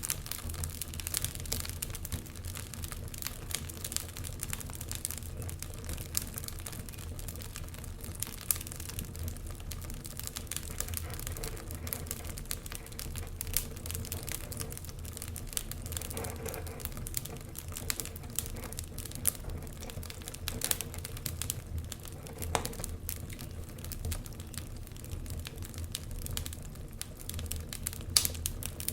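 Wood fire crackling, with irregular sharp snaps and pops over a low steady rumble.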